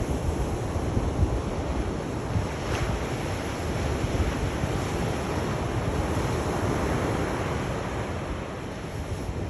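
Sea waves washing onto the shore in a continuous rumbling wash that swells and eases slightly, with wind buffeting the microphone.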